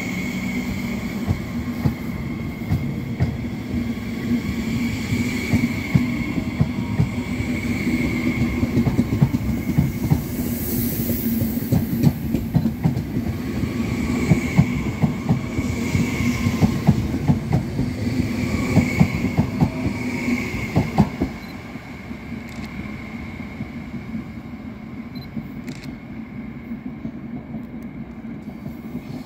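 Frecciarossa 1000 high-speed electric train running along the platform and moving away: wheels clattering rapidly over rail joints and points, over a rumble and a high whine that swells and fades. The clatter stops about two-thirds of the way through, leaving a fainter rumble as the train recedes.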